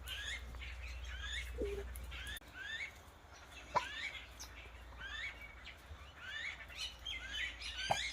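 A flock of small birds chirping, short rising chirps repeating every half second or so and overlapping more near the end. A few faint knocks are heard, one sharper about four seconds in.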